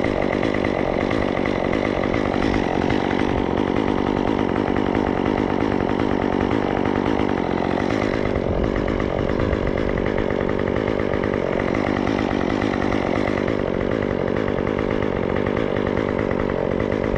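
Gas chainsaw running at high revs and cutting wood steadily, its note shifting slightly about halfway through.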